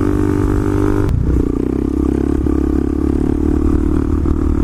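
Pit bike's small single-cylinder engine running steadily under way. About a second in there is a brief click and the engine note changes, then holds steady.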